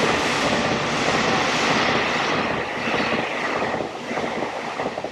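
Train passing close by at speed: a loud rush of wheel and rail noise that fades away from about three seconds in.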